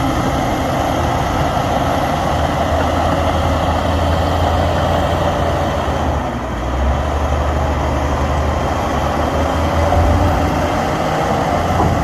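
Heavy earthmoving machine's diesel engine running steadily, a deep low drone that dips briefly about six seconds in.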